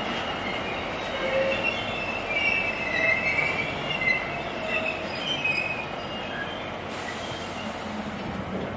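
Freight train of covered bogie hopper wagons rolling past, wheels squealing in shifting high whines over a steady rumble. The squeal is strongest for the first six seconds or so, then eases to a plainer rolling sound.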